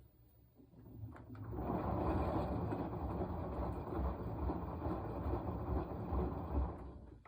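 Washing machine drum turning a load during the wash cycle: it starts about a second in, runs steadily with a low rumble for about five seconds, then stops suddenly, one of the timed turns between pauses.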